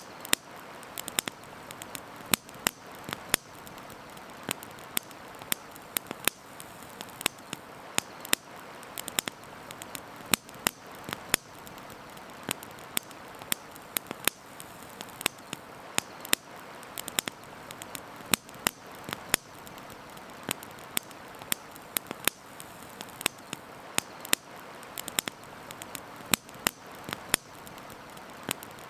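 Campfire wood burning, crackling with irregular sharp pops several times a second, over a steady rushing hiss of flowing river water.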